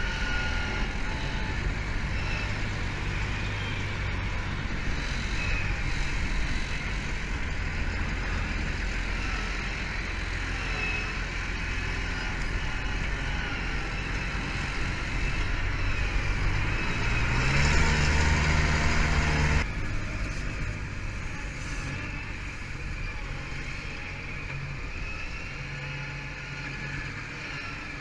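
A large engine running steadily. It rises in pitch and gets louder about 17 seconds in, then the sound changes suddenly about 20 seconds in and runs on more quietly.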